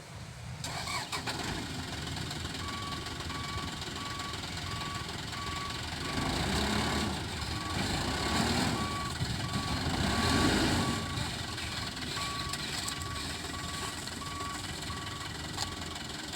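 Diesel truck engine running with a reversing alarm beeping steadily about twice a second; the engine swells louder twice, around the middle of the stretch.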